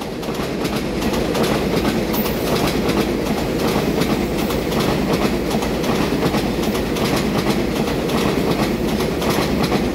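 Taiwan Railways EMU3000 twelve-car electric multiple unit running past: a steady rumble of wheels on the rails, with many quick clicks of the wheels over the rail joints.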